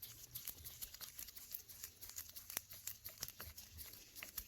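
Faint, irregular small clicks and scrapes of a Torx T8 screwdriver turning a small screw into a plastic handlebar switch housing, with a slightly sharper click past the middle.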